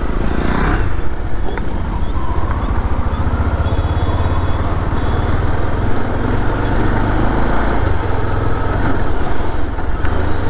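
Bajaj Pulsar motorcycle being ridden, its engine running steadily under a continuous low rumble of road and wind noise.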